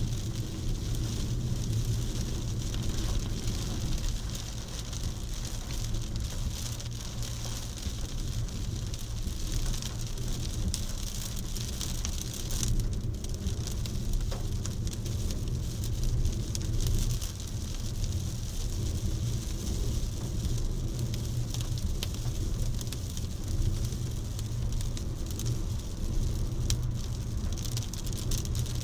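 Steady rain falling, with many scattered drop hits over a continuous hiss and a low rumble underneath.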